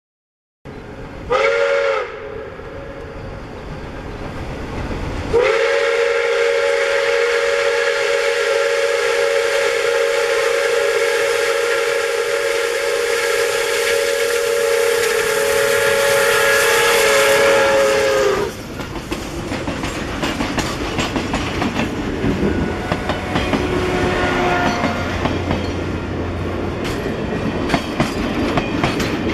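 Pere Marquette 1225 steam locomotive sounding its whistle: a short blast about a second in, then one long chord-like blast of about thirteen seconds that sags in pitch as it cuts off. After the whistle the train keeps running by, with wheels clicking over the rail joints.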